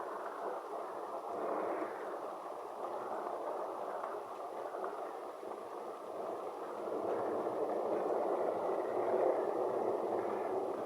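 Rolling thunder rumbling on a smartphone microphone, in slow swells that grow louder about seven seconds in.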